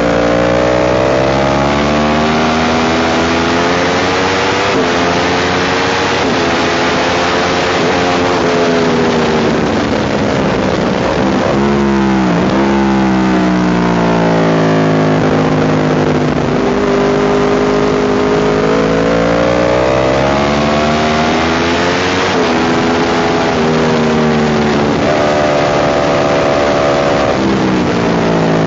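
Motorcycle engine at racing speed, its pitch climbing through each gear and dropping back at every upshift. About ten seconds in it falls away under braking and downshifts, then climbs again out of the corner. There is a constant rush of wind over the microphone.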